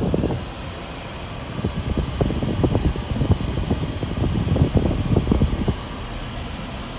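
Steady fan hiss of a car's ventilation blowing inside the cabin, over the low rumble of the car driving. Through the middle few seconds a run of irregular low rustling knocks rises over it, then drops away.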